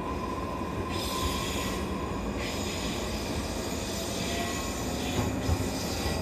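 JR East E531 series electric train running, heard from inside the car: a steady rumble of wheels on rail, with stretches of high-pitched wheel hiss and squeal coming and going.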